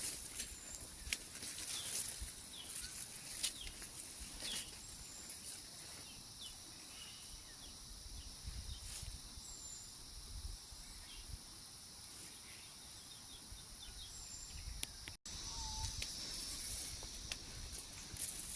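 Forest ambience: a steady high-pitched insect drone with scattered short bird chirps and occasional light clicks and rustles. There is a brief cut to silence near the end.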